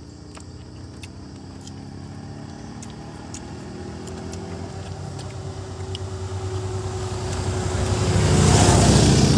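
Road vehicle on the highway approaching, its engine and tyre noise getting steadily louder until it passes close about eight or nine seconds in.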